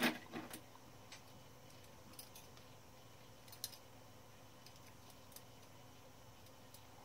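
Small metal clicks and taps of a typewriter typebar being handled and fitted into a 1912 Mercedes No. 3 typewriter: a quick cluster of clicks at the start, then faint scattered ticks, with one sharper click a little past halfway.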